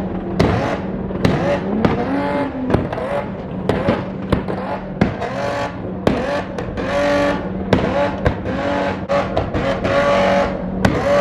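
Dodge Challenger SRT Demon's supercharged V8 revving hard again and again during a burnout, its pitch rising and falling, with sharp cracks throughout.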